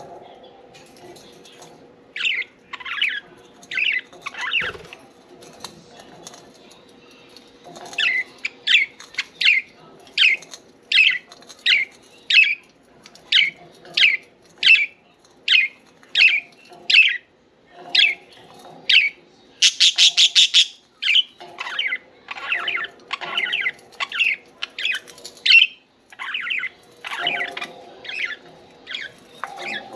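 Budgerigars chirping: a long run of short, sharp chirps, about two a second, with one louder, harsher buzzing call about twenty seconds in.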